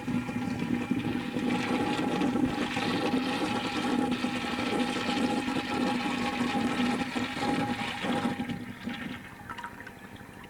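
Toilet flushing: a rush of water starts suddenly, runs for about eight seconds, then dies down to a quieter trickle.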